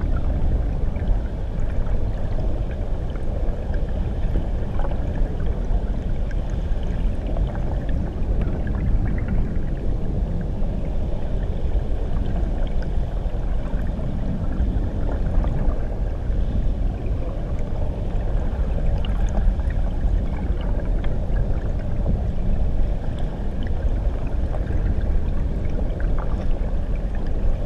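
Muffled underwater recording of a waterfall: a steady low rumble of churning water, with faint scattered bubbly ticks.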